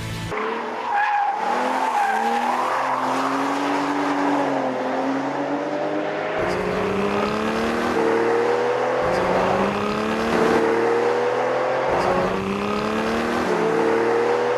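A car engine accelerating hard through the gears. Its pitch climbs steadily, then drops back at each upshift, four times.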